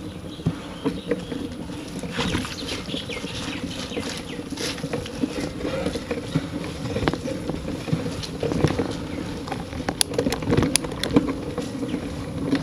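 Rain pattering, with scattered irregular clicks and ticks throughout.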